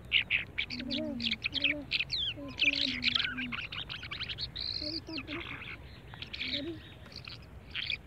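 Caged small birds chirping and twittering in quick runs of high notes, busiest about three seconds in. Short, low hoot-like calls sound underneath during the first half and again around the middle.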